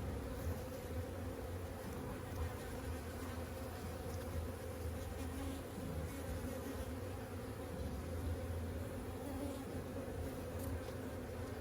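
Honeybees buzzing around an open hive, a steady low hum of many bees.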